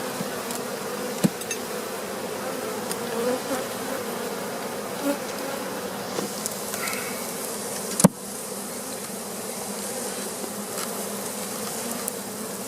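A mass of honey bees buzzing steadily around an opened hive. About eight seconds in there is one sharp knock, as of a frame or hive part being bumped.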